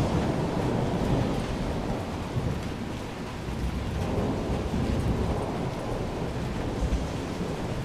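Rolling thunder rumbling and dying away over the first few seconds, over steady rain.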